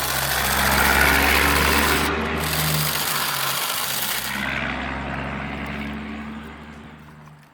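Small electric motors and gearboxes of RC construction models running with a steady whir under a gritty, rasping scrape, fading away over the last few seconds.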